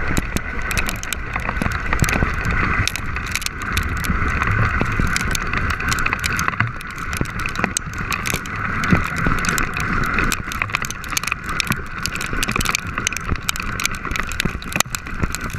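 A volcano board sliding down loose volcanic gravel: a continuous scraping rush, dense with small clicks and clatters of stones.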